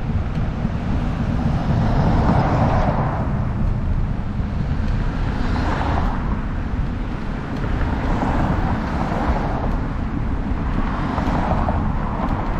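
Wind rumbling heavily on a bike-mounted camera's microphone while cycling. Road traffic swells past about four times, a vehicle every few seconds.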